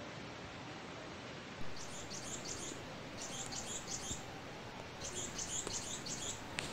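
A bird chirping in quick high-pitched bursts, three short phrases over a steady background hiss, with a single sharp click near the end.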